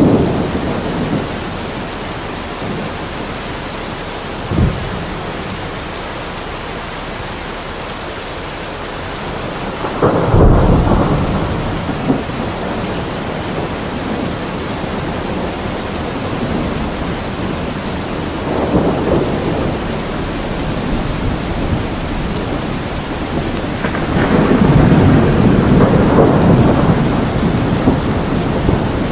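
Steady heavy rain with rolling thunder: a sharp crack about four seconds in, a loud clap and rumble about ten seconds in, and longer rumbles near twenty seconds and through the last five seconds.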